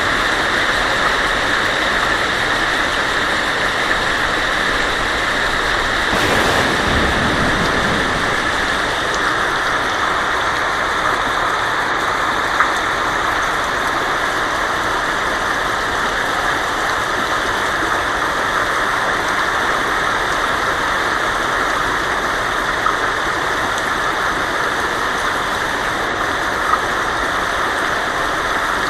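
Heavy rain falling steadily on a tin roof, with a short rumble of thunder about six seconds in and a few sharper taps of drops now and then.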